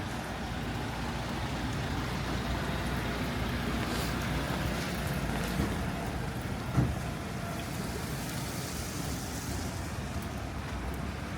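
Road traffic on a rain-wet city street: a steady noise of passing vehicles, with a short knock about seven seconds in.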